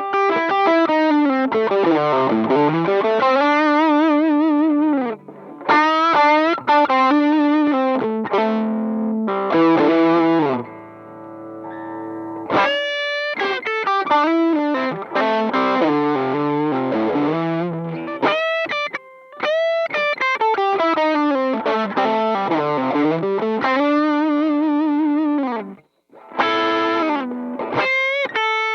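Electric guitar played through a Demonfx King Spark drive pedal, a clone of the Flashdrive, giving a distorted tone. It plays lead phrases with string bends and vibrato, with a few short pauses and a quieter stretch of held notes partway through.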